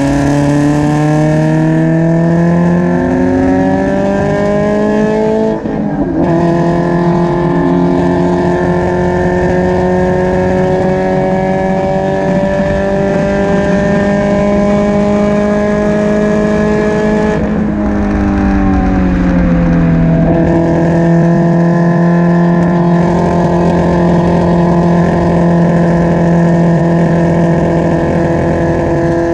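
Spec Miata four-cylinder engine heard close behind the exhaust at speed on track. Its pitch climbs, breaks briefly for an upshift about six seconds in, then climbs slowly again. The revs fall off just before twenty seconds in and hold steady to the end. The owner reports the car still misfiring and down on power.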